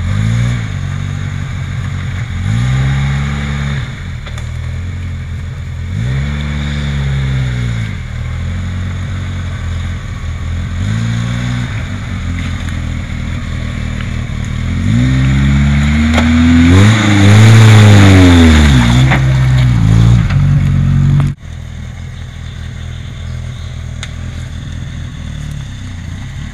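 Suzuki Samurai 4x4's engine revving in repeated short bursts under load as it crawls through a muddy rut, the pitch rising and falling with each blip. About fifteen seconds in it holds a longer, higher rev for several seconds, then the sound drops suddenly to a quieter, steady engine note.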